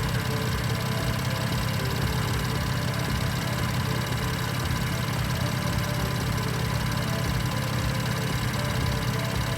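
BMW M4's 3.0-litre twin-turbo inline-six idling steadily.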